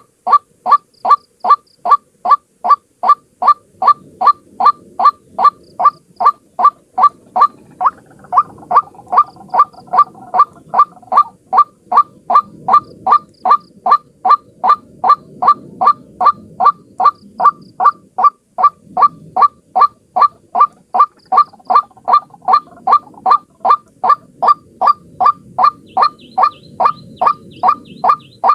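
White-breasted waterhen calling its repeated 'ruak' note, about two and a half short calls a second in an even rhythm, as a lure call for trapping. A second, fainter call overlaps it from about 8 to 11 seconds in, over a low background rumble.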